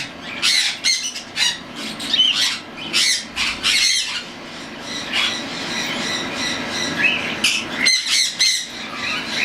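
Young cockatiels near weaning squawking in rapid, harsh, raspy calls, with a short lull in the middle.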